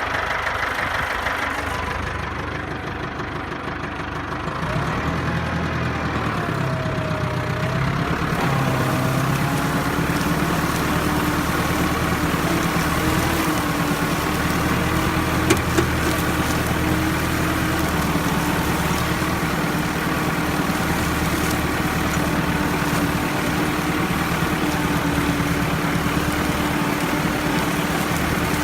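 Ford tractor engine running steadily under load while pulling a three-disc plough through sticky clay. The engine note sags briefly near the start, then picks up and holds steady. Two short sharp clicks come about halfway through.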